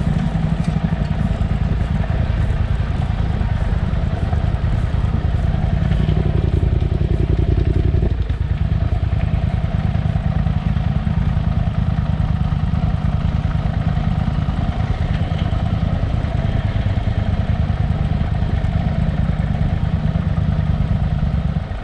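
Motorcycle engine running steadily while riding, with a brief change in tone between about six and eight seconds in and a short dip near eight seconds.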